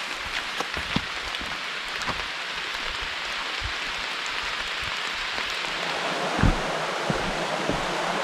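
Rain falling steadily, with scattered drops ticking close by and one dull thump about six and a half seconds in.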